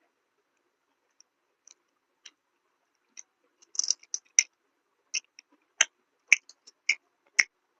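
Close-miked mouth sounds of someone chewing food: scattered short wet smacks and clicks, sparse at first and coming more often from about halfway.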